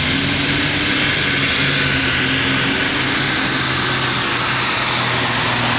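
A competition pulling vehicle's engine running loud and hard at a steady, high speed, with an even pitch through the whole stretch.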